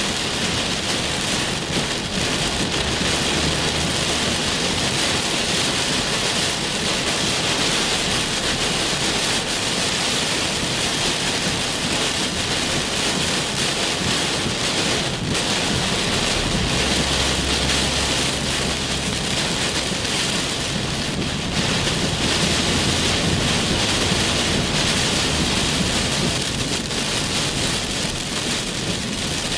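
Heavy thunderstorm rain pouring steadily, with low thunder rumbling at times.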